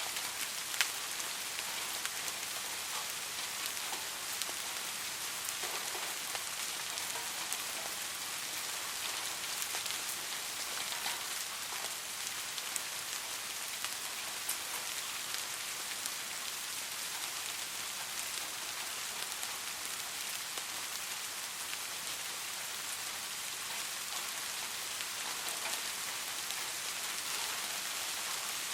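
Steady rain falling, a continuous hiss with scattered individual drops ticking through it, one sharper drop about a second in.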